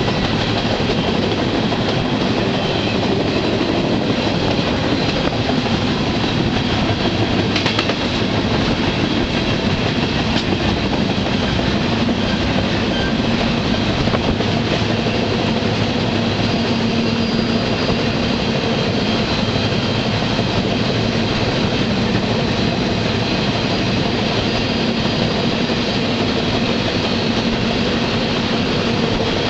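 Freight train in motion, heard from aboard one of its cars: a steady rumble and rattle of wheels running on the rails.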